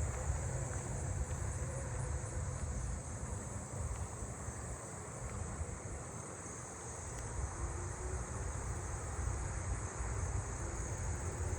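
Steady high-pitched chorus of night-singing insects (crickets and katydids) over a low rumble, with a faint tone rising slowly in the second half.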